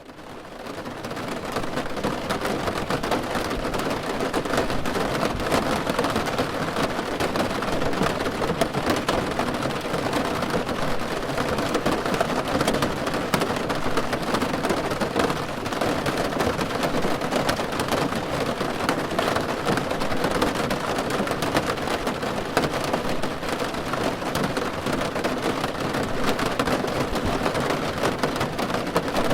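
Rain falling on a car roof: a dense, steady patter of many small drops, fading in over the first second or so.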